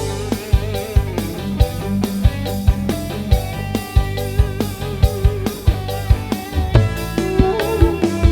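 Dangdut mini band playing an instrumental passage: a guitar melody over bass and a steady drum beat.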